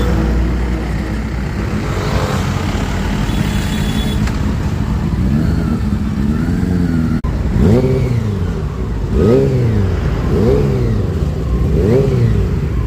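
Honda CB400 motorcycle exhaust: the engine idles with one throttle rev, then from about halfway in it is blipped six times in quick succession, each rev rising and falling quickly.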